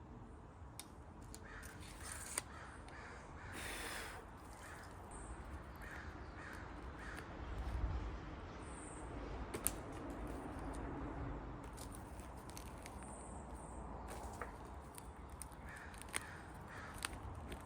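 A bird giving three runs of short, repeated calls, with a few sharp clicks and a low steady rumble underneath.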